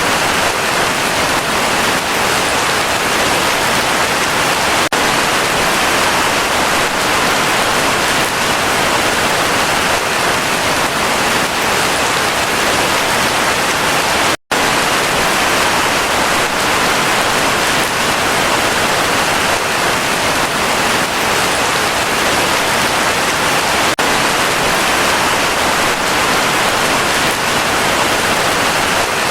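Heavy rain falling steadily, a dense, even hiss. About halfway through, the sound cuts out for a split second and then resumes.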